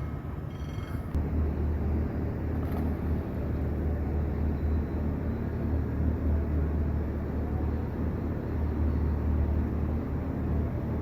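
A vehicle running steadily, a continuous low rumble with a rushing noise above it.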